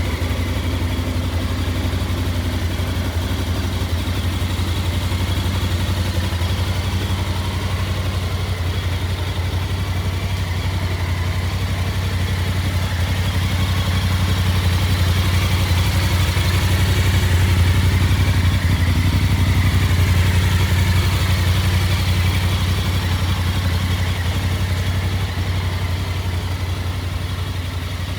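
Voge 625 DSX motorcycle's parallel-twin engine running steadily, swelling a little louder around the middle before easing back.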